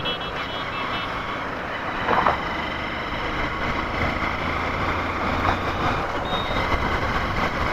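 Honda Unicorn single-cylinder motorcycle being ridden along a road: steady engine and road noise, with a brief louder noise about two seconds in.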